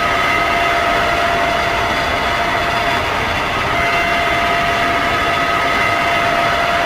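Electric drill motor running steadily with a high whine over a loud, even mechanical noise; the whine drops out briefly about three seconds in, then returns.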